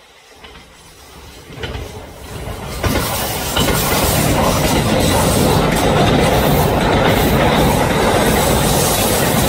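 A train running on rails, its noise swelling over the first three seconds and then holding steady and loud.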